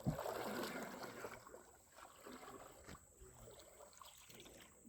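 A paddle stroke swishing through water at the start, then faint water sounds around a small boat, with a couple of soft knocks.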